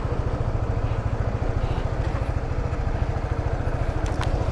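150cc motorcycle engine idling steadily with a fast, even low beat.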